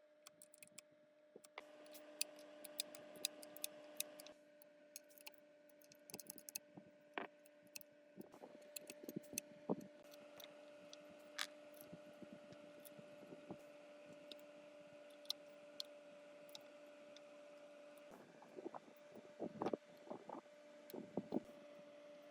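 Scattered light clicks and taps, with clusters of them a few seconds in, in the middle and near the end, over a faint steady hum.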